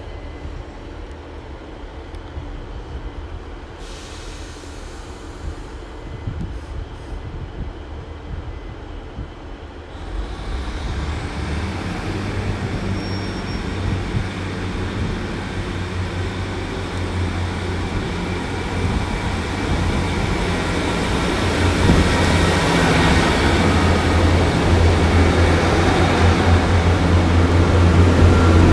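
Class 150 Sprinter and Class 143 Pacer diesel multiple units running into the station: a low diesel engine rumble that grows steadily louder from about ten seconds in, with a thin high whine over it from the wheels or brakes.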